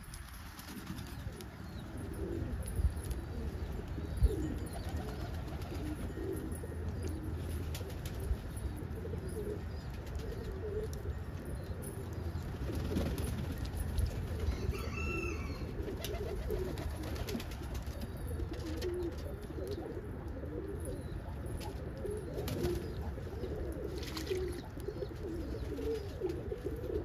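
Several roller pigeons cooing at once, a steady overlapping low cooing, with a couple of sharp claps early on and a brief higher call about halfway.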